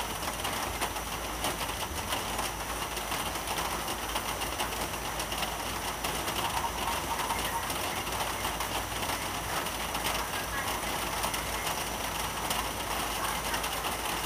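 Steady rain falling: an even hiss with many fine ticks, without change or pause.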